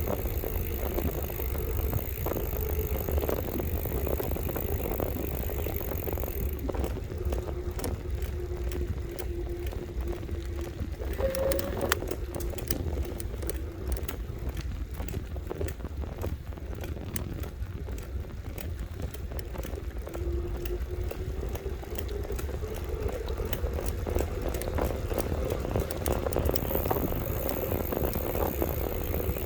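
Electric bike's motor whining while riding, its pitch sagging and then dropping away for several seconds midway, before it returns and rises again toward the end. Underneath is a steady low wind rumble on the microphone, with frequent small rattles and clicks.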